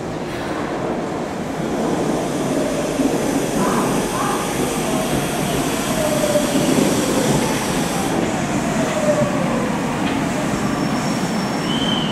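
Saitama Railway 2000 series electric train running with a steady rushing rail noise, and a whine that falls slowly in pitch through the middle.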